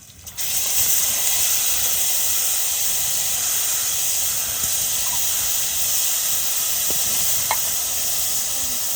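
Food sizzling in a hot pan: a loud, steady hiss that starts suddenly about half a second in.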